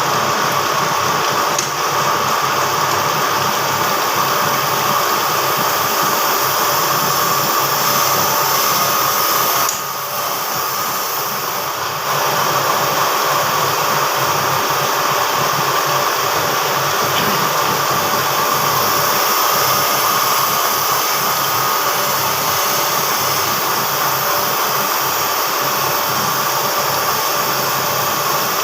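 Machine-shop grinding machine running steadily: a continuous hissing whine with a steady tone in it, dipping briefly for about two seconds about ten seconds in.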